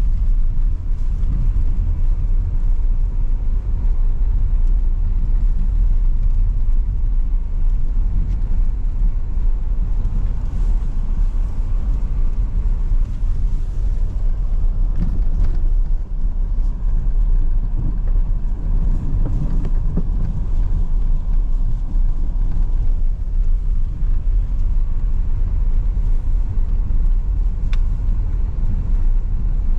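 Car driving along a street: a steady, low rumble of engine and road noise.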